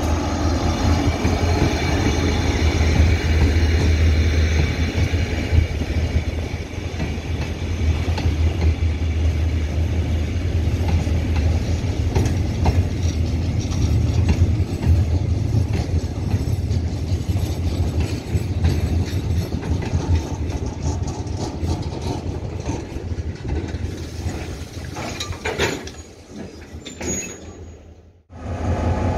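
Diesel locomotive R157 running past as it pulls a freight train into the station, its engine hum strong at first, followed by the line of freight wagons rolling by with steady wheel rumble and clacking. The sound fades near the end and cuts off abruptly.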